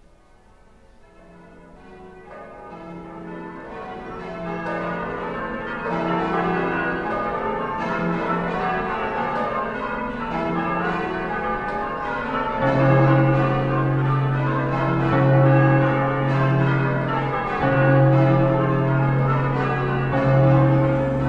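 Church bells pealing in a quick run of overlapping strikes, fading in over the first few seconds. About 13 seconds in, a deep steady humming tone joins them.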